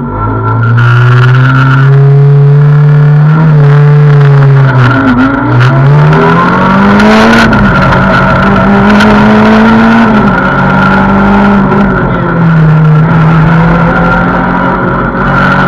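Renault Clio 2 rally car's engine heard from inside the cabin, loud, pulling away hard and revving up through the gears. The pitch climbs and drops back at each of several upshifts, with a steady high whine running underneath.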